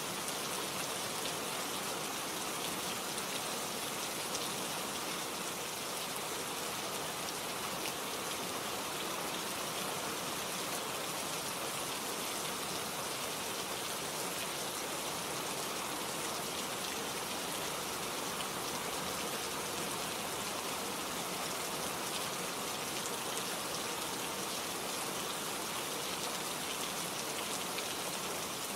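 Steady rain falling, a dense even patter of drops on leaves and surfaces with no let-up.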